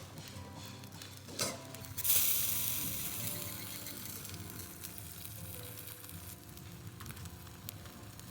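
River fish sizzling as they grill over a small wood fire, with a knock about a second and a half in and a louder rush of hissing about two seconds in that slowly fades. Soft background music plays underneath.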